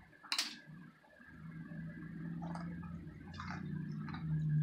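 Crunchy butter-fried ramen noodles being bitten and chewed: a sharp crunch about half a second in, then scattered crunches while chewing, over a steady closed-mouth hum that grows louder toward the end.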